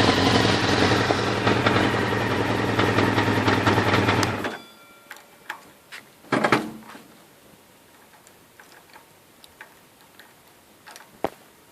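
Honda CBR600 F2's inline-four engine running steadily, then shut off about four and a half seconds in. Afterwards there are scattered small clicks and a short clatter about six and a half seconds in.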